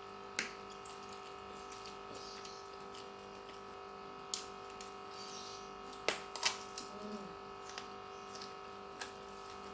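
Close-up mouth sounds of someone chewing a mouthful of fried fish and rice with chilli sambal: scattered sharp clicks and smacks, several in a row a little past the middle. Under it a steady electrical hum of several tones.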